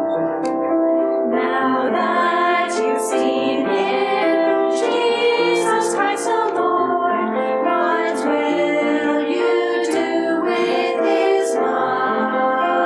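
Voices singing a Christmas cantata with piano accompaniment, holding sustained notes with sharp 's' sounds in the words.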